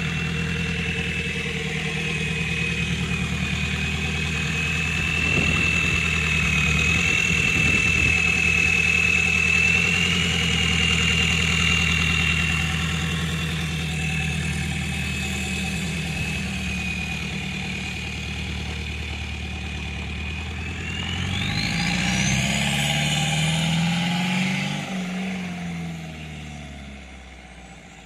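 VW AAZ 1.9-litre four-cylinder turbodiesel idling, with a thin steady high whistle from its small K03 turbocharger. Near the end it is revved once: the whistle climbs sharply in pitch with the engine, then the engine drops away and the whistle glides back down as the turbo spools down.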